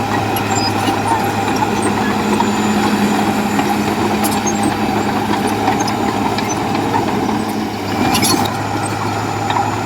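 Heavy diesel earthmoving machinery running steadily under load, with a short hiss about eight seconds in.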